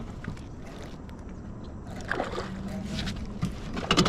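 Water sloshing and lapping around a kayak, with small splashes and a faint steady hum partway through.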